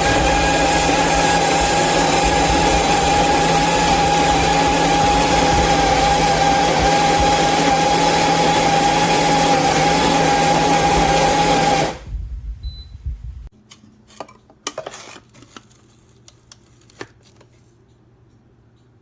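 Electric conical burr coffee grinder motor running loudly and steadily with a strong whine, then cutting off abruptly about twelve seconds in, followed by a few light clicks and knocks.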